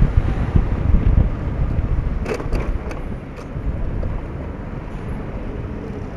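Wind rushing over the microphone on a moving motorcycle, with road and engine noise underneath; the wind is loudest in the first two seconds, then eases. A few short clicks come near the middle.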